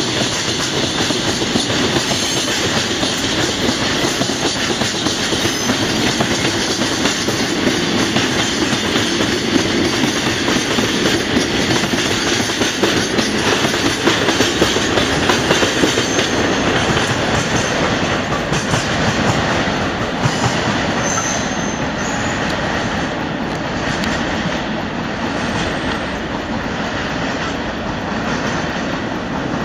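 Freight train rolling past, its wheels clattering steadily over the rails, easing off a little in the last third. There is a short high squeal about two-thirds of the way through.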